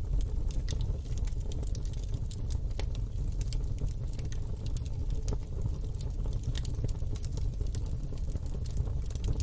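Wood fire burning in a fire pit: irregular sharp crackles and pops over a steady low rumble of the flames.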